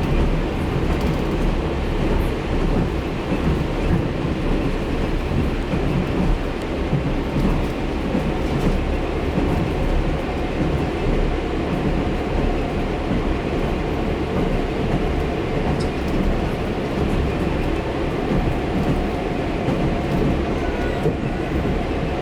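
Steady, heavy rumble of a TEP70BS diesel passenger locomotive under way, its diesel engine and running gear heard together without a break.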